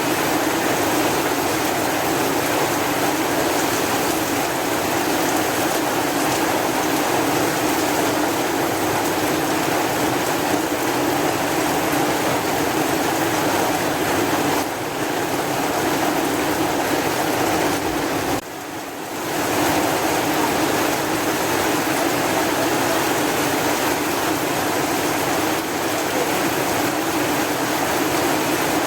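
Steady heavy rain: a dense, even rush of water noise with no single drops standing out. About two-thirds of the way through it drops away for about a second, then resumes.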